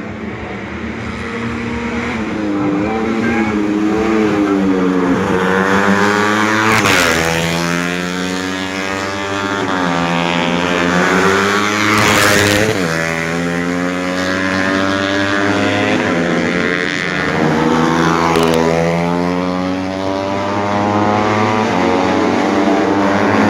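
Four-stroke 125 cc underbone racing motorcycles accelerating hard. The engine pitch climbs, then drops at each gear change, again and again.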